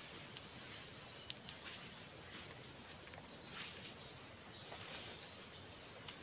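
Steady, high-pitched chorus of forest insects, an unbroken shrill hum in several layers, with a few faint short chirps in between.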